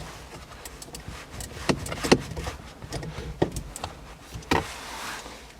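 A few separate sharp clicks and knocks of a hand tool working on the gear shift lever's mounting screw, a Phillips bit turning it out.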